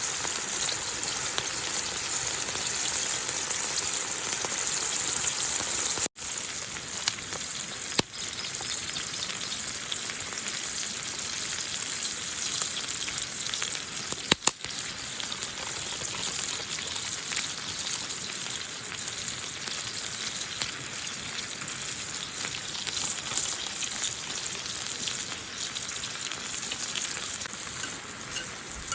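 Food sizzling steadily in a frying pan as goya champuru is stir-fried. The sizzle breaks off for an instant about six seconds in, and a few light clicks of a utensil against the pan come through.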